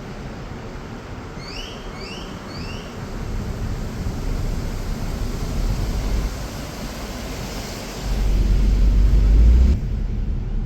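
SUV driving, a steady low rumble of engine and road, with a louder surge of low rumble near the end that cuts off suddenly. Three short rising chirps sound about two seconds in.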